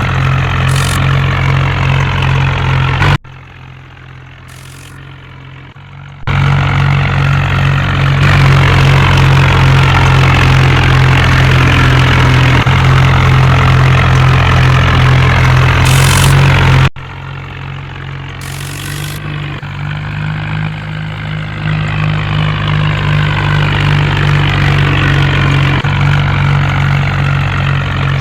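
Steady low vehicle engine drone, a sound effect for the cartoon's tractor or backhoe. It cuts abruptly several times: much quieter from about 3 to 6 seconds in, loud again, then drops about 17 seconds in and slowly builds back up.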